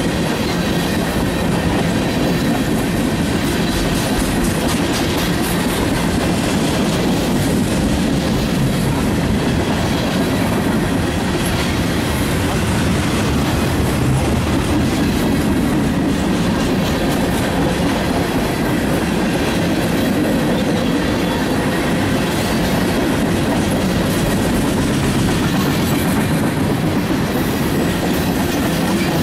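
Freight train of tank cars and boxcars rolling past at speed. Its steel wheels give a steady, even noise on the rails.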